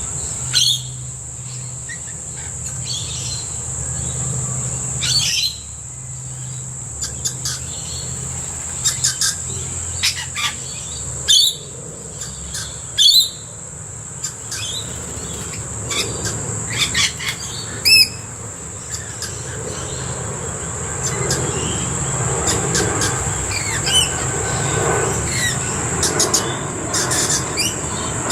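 Short chirps and squawks from a mixed flock of rainbow lorikeets, blue-faced honeyeaters and noisy miners, scattered irregularly, over a steady high insect drone. A low rumble builds over the last several seconds.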